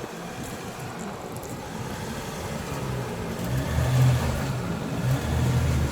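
Jeep Gladiator's engine pulling under load as the truck crawls over a rock obstacle, its low hum growing louder from about halfway through.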